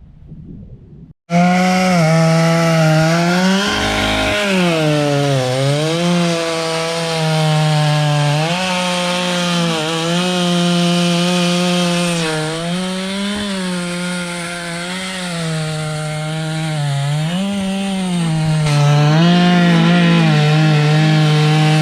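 Two-stroke chainsaw, set in an Alaskan mill, ripping a butternut log lengthwise. It starts suddenly about a second in and runs loud and steady under load, its pitch dipping and recovering several times as the engine bogs in the cut.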